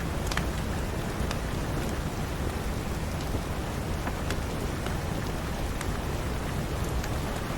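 Steady rain falling, with a few sharp crackles from a wood fire in a fireplace scattered through it.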